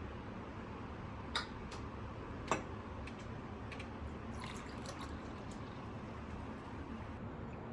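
Quiet room tone with a few light clicks and taps, two sharper ones in the first few seconds and several fainter ones after.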